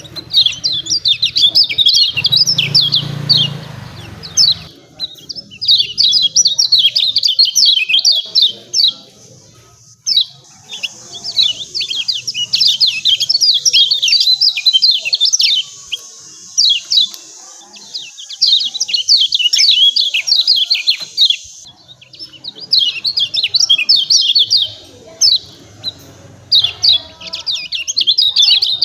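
Kecial kuning (a Lombok white-eye) giving fast, excited 'ciak ciak' chirping calls, high-pitched and packed together in phrases of a few seconds broken by short pauses.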